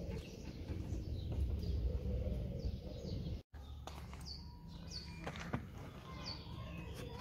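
Birds chirping outdoors in short falling calls, over low rumbling handling noise and a few light clicks from hands working on the car's plastic trim. The sound cuts out briefly about halfway through.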